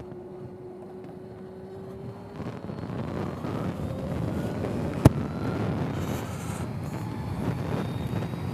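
Zero SR/F electric motorcycle picking up speed: a faint whine rises slightly in pitch over the first two seconds, then wind and road noise build steadily. A single sharp click comes about five seconds in.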